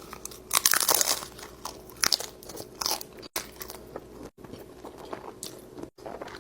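Close-up crunching of a bite into a taco with a crunchy shell, loudest in a cluster about half a second in, with more crunches around two seconds, then quieter chewing.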